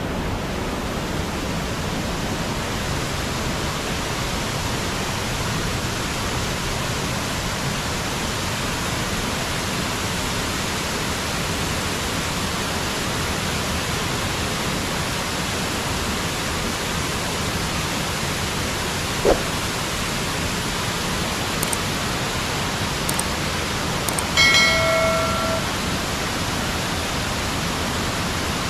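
Anagimala waterfall: a steady rush of falling water. A single short sharp sound about two-thirds through, and a brief pitched call near the end.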